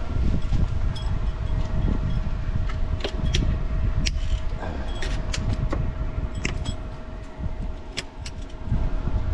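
Scattered light metallic clicks and clinks over a low rumble, with a faint steady hum.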